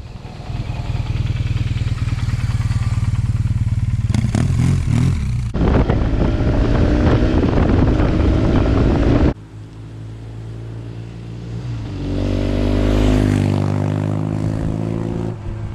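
BMW R 1200 GS motorcycle with an SC Project exhaust running under way, in several clips joined by sudden cuts. In the last clip the engine note rises as the bike accelerates.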